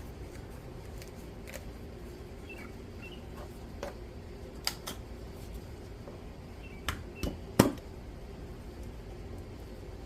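A few sharp clicks and knocks of plastic oil bottles and a funnel being handled at the engine's filler, two about halfway through and a quick cluster of three near the end, the last the loudest, over a steady low hum.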